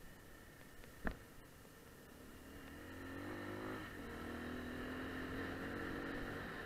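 AKT Adventour 250 motorcycle engine pulling on a dirt road: its pitch climbs for about a second, drops, then holds steady and louder. A single sharp knock about a second in is the loudest sound.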